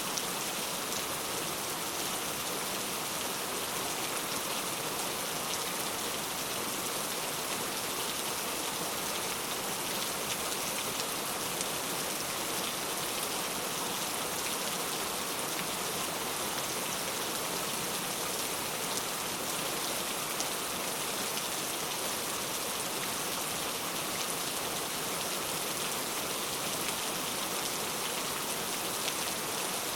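Steady rainfall: an even hiss of rain with fine drops pattering on a surface, with no change in strength.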